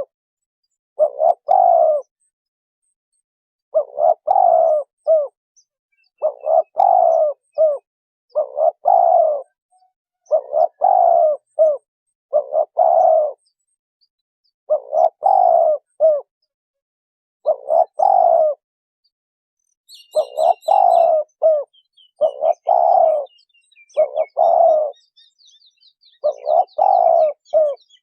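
Spotted dove cooing: short phrases of a few low notes, repeated about every two seconds with occasional longer gaps. From about two-thirds of the way through, faint high chirps of small birds join in.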